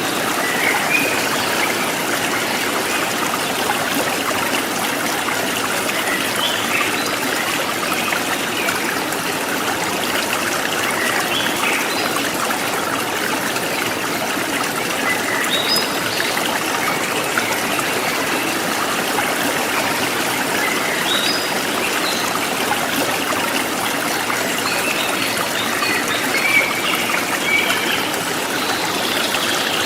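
A river stream flowing, a steady rush of running water with no break.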